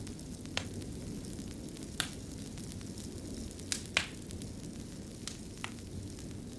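Wood fire burning in a stone fireplace: a steady low rumble with scattered sharp crackles and pops from the burning logs, the loudest pair about four seconds in.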